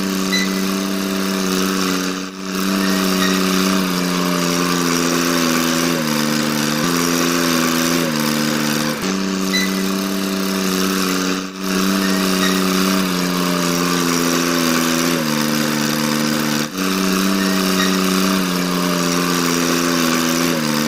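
Small motor of a homemade model tractor running with a steady whine, stepping down to a lower pitch for a second or two several times and breaking off briefly three times.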